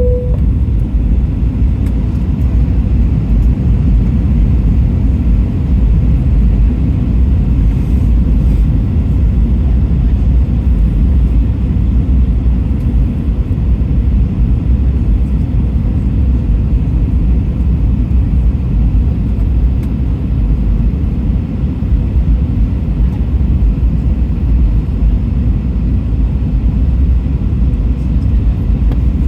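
Steady low rumble of airflow and jet engines heard inside the passenger cabin of an Airbus A320 airliner in flight.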